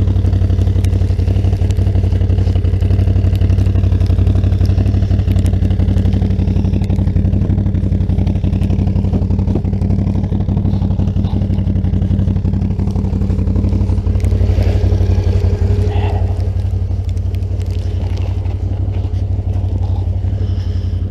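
Can-Am Outlander 650's Rotax V-twin engine running at a steady, even pace, a loud low drone with no revving.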